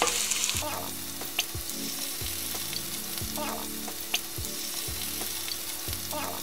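Ground beef with diced bell pepper and scallions sizzling in a stainless steel skillet as it is stirred with a spatula, with a few sharp clicks of the spatula against the pan. The sizzle is louder for the first half-second, then settles to a steady hiss.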